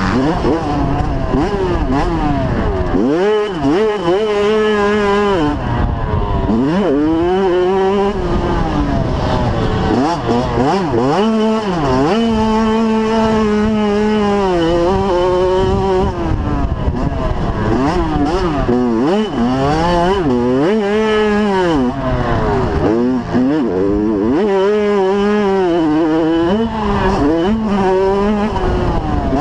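85cc two-stroke motocross bike engine revving hard, its pitch climbing and dropping again and again as it races.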